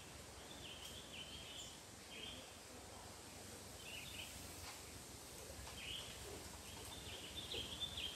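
A bird calling in short chirps, repeated in small clusters every second or two and busiest near the end, over a steady low outdoor rumble.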